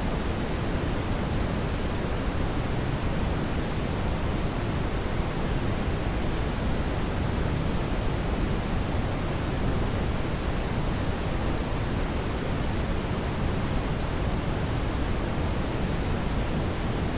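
Steady brown noise: an even, deep rushing hiss, strongest in the bass, with no changes.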